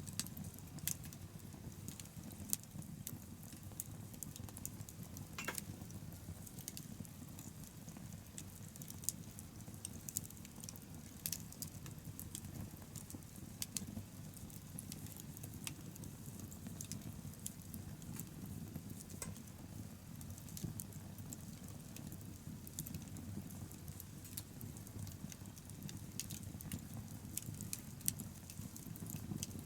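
Wood bonfire crackling, with many irregular sharp pops and snaps over a steady low rumble.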